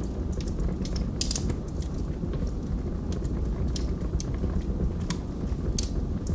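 Wood fire in a fireplace, burning logs crackling and popping with irregular sharp snaps over a steady low rumble of flame.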